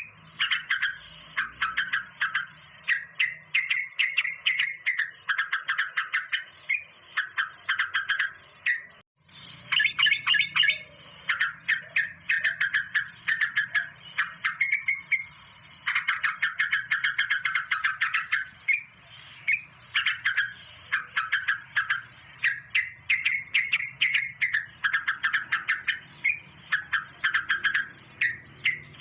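Birds chirping rapidly in dense runs of short, high notes, several a second, with a brief break about nine seconds in.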